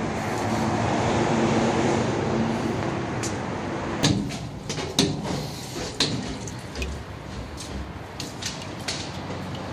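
Steady workshop background noise, then a string of sharp clicks and knocks, several about a second apart, from parts and tools being handled in an oil-change bay.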